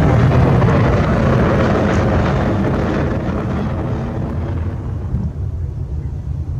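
Jet airliner's engine noise fading as the aircraft moves away: the hiss and higher part of the roar die away first over the last few seconds, leaving a low rumble.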